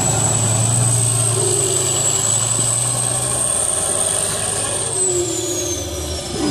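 Competition trial truck's engine running hard, with a steady low drone and a thin high whine. About five seconds in the drone eases and the whine falls steadily in pitch, as the engine comes off load.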